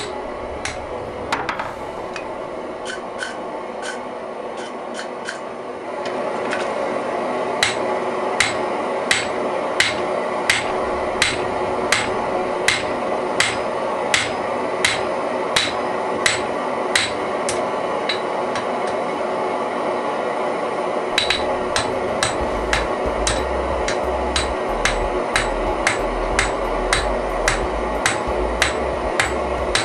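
Hammer striking hot wrought iron on an anvil while a chisel is forged: a steady run of ringing blows, about one and a half a second, with a short break about two-thirds of the way through, over a steady background rush.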